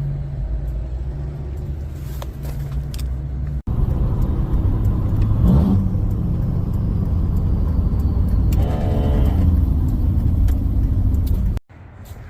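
An engine running steadily at idle, a loud low rumble, cut off abruptly twice.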